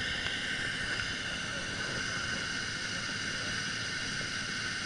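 Subaru Impreza rally car's flat-four engine idling close by: a steady, unchanging engine noise with a constant high whine over it.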